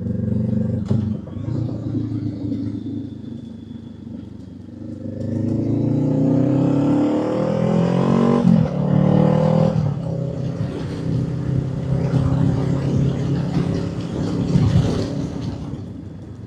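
Motorcycle engine heard from the rider's own bike, pulling up through the revs with a rising pitch for a few seconds. The pitch drops sharply on a gear change about halfway through, and the engine then cruises more steadily. A constant wind rush runs under it.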